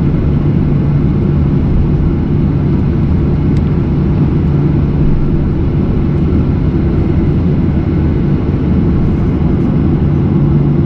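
Steady cabin noise of a Boeing 737 airliner: an even engine and airflow rumble with a constant low hum.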